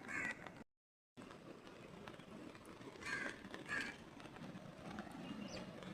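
A crow cawing, three short caws, over a steady background hiss; the sound cuts out completely for half a second shortly after the first caw.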